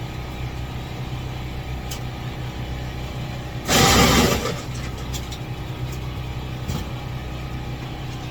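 Electric ice shaver grinding a block of ice in two short bursts of about a second each, one near the middle and one at the very end, over a steady low engine-like hum.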